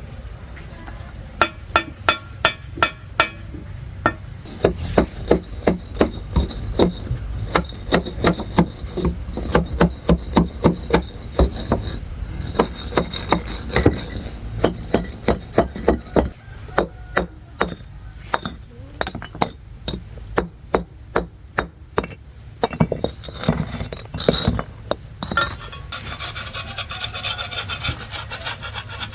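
Construction work with hand tools: a long run of sharp, ringing knocks, about two or three a second with short pauses, then a steady rasping scrape near the end.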